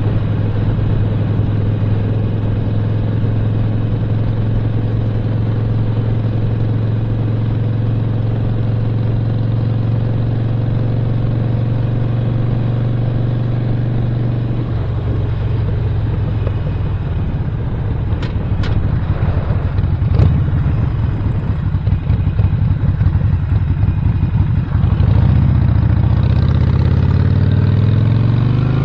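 2017 Harley-Davidson Sportster Roadster's 1200 cc air-cooled V-twin with a Stage 1 upgrade, running under way at a steady pitch, then easing off about halfway through. A few sharp clicks follow, and the engine revs up near the end as the bike accelerates.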